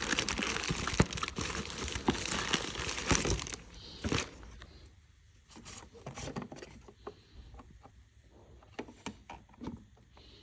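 Packaging of new engine parts crinkling and rustling as it is handled, dense for the first few seconds and then dropping to scattered small clicks and taps.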